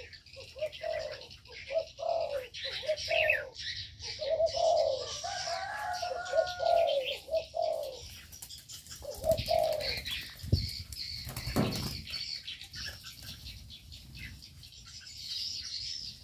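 Aviary birds calling: a repeated low cooing call through the first half, with higher chirping over it, and a few brief flutters or thumps around ten to twelve seconds in.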